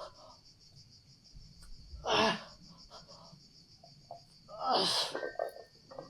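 Two forceful, strained exhalations about three seconds apart from a man working through dumbbell shoulder press reps, over a steady high chirring of insects.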